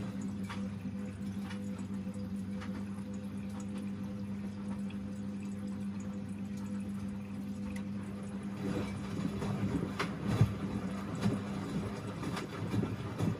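Washing machine mid-cycle: a steady hum from its motor or pump runs until about two-thirds of the way through, then stops, leaving water sloshing and splashing in the drum.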